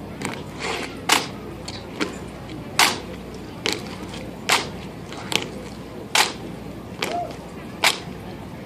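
Sharp slaps and knocks from a drill team working M1 Garand rifles with fixed bayonets in unison, in a steady rhythm of about one crack a second with every other one louder.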